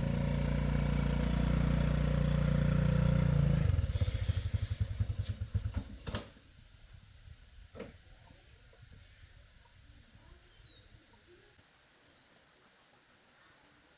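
A vehicle engine is idling steadily, then switched off about four seconds in. Its firing slows into separate beats and dies out about two seconds later, followed by a couple of faint clicks.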